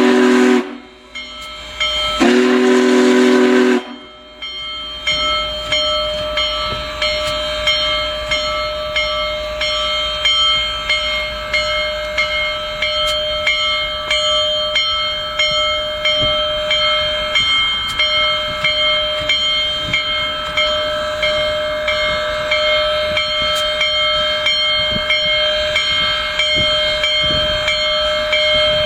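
Union Pacific Big Boy 4014 steam locomotive sounding two whistle blasts in the first four seconds. Its bell then rings steadily, about one stroke a second, over hissing steam.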